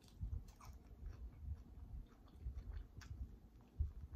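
Quiet, close-miked chewing and wet mouth clicks of a person gnawing meat off an air-fried chicken drumstick, with irregular soft thuds and a few faint clicks.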